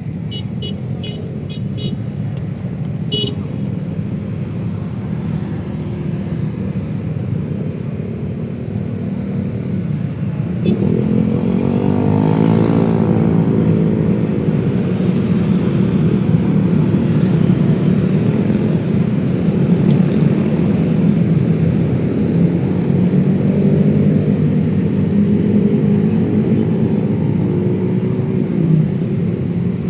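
City street traffic of cars and motorcycles running by, with a few short clicks in the first three seconds. About a third of the way in, engines close by pick up with a rising pitch and the traffic stays louder.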